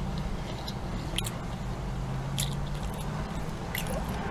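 Close-miked chewing of a spicy chicken biscuit, with a few sharp wet mouth clicks, over a steady low hum in a car.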